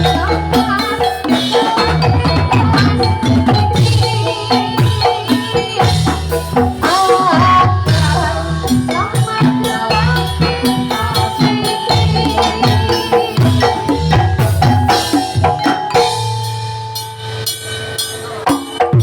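Javanese gamelan music for a jathilan dance, played over a PA sound system: metallophones and kendang drums beating out a fast, steady pattern. About three seconds before the end the drumming drops away, leaving a few held ringing tones.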